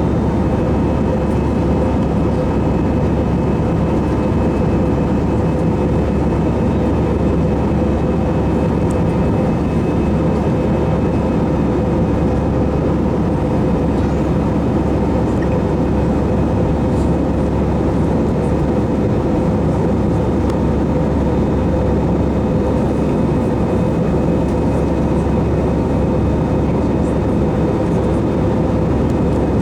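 Passenger airliner during takeoff: a loud, even rumble that holds steady without rising or falling, with a faint high steady whine above it.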